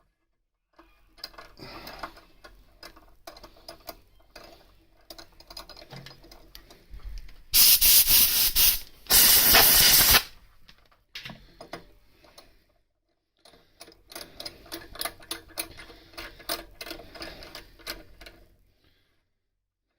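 Metal tap being worked in and out of a threaded hole, with irregular light clicking and scraping of steel on steel as chips bind it. About eight seconds in come two loud blasts of about a second each, hissing like compressed air blown into the hole to clear the chips.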